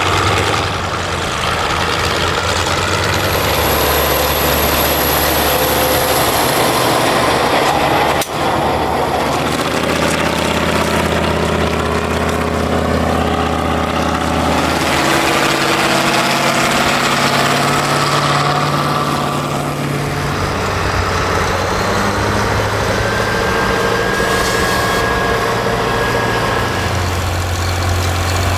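Classic John Deere tractor engines running steadily while working in the field, in a series of short clips that cut from one tractor sound to the next about 8, 15 and 20 seconds in.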